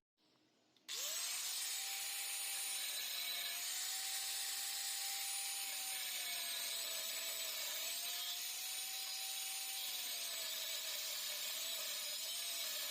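Electric power tool starting up about a second in and running steadily at speed with a high whine, its pitch sagging slightly now and then as it takes load.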